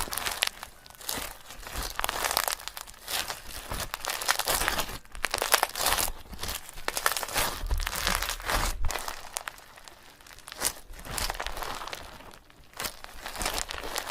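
Dry crinkling and rustling, like paper or bedding being handled or dug through, coming in irregular spurts with short lulls between them.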